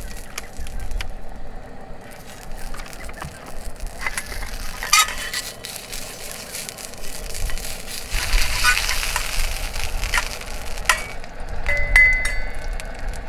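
Food sizzling in a hot sandwich maker over a camp stove, with scattered clicks and clinks of metal cooking gear.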